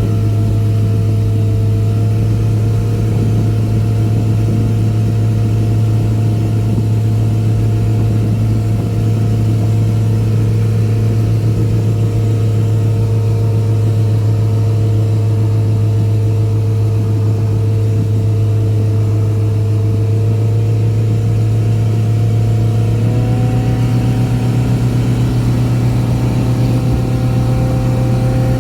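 Sterndrive boat engine running hard under way at steady high revs. About 23 seconds in, its pitch steps up as the throttle is opened further toward wide open. The freshly rebuilt drive (new gimbal bearing, U-joints and exhaust bellows) is running smooth.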